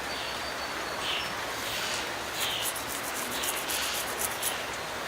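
Steady hiss of light rain, with a faint high chirp repeating about every two-thirds of a second and a run of quick high ticks in the middle.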